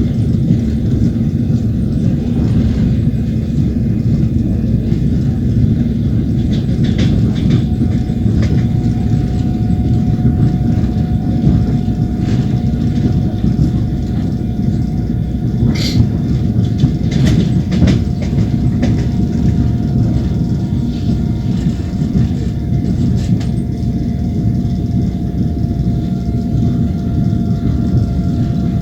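Train wheels running on the rails, heard from inside the moving carriage: a steady heavy rumble with occasional sharper clacks of the wheels over rail joints.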